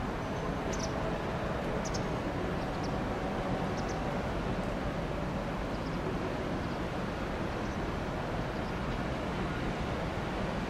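EH200 electric freight locomotive hauling oil tank wagons, approaching with a steady rumbling run, a faint whine in the first few seconds and a few brief high ticks.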